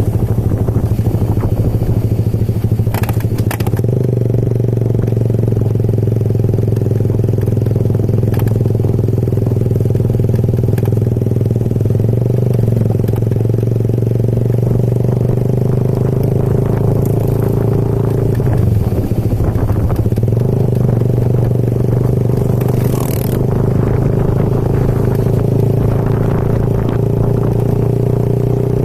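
Motorcycle engine running at a steady pace while riding, with rattles and a few brief sharp noises about three, eight and twenty-three seconds in.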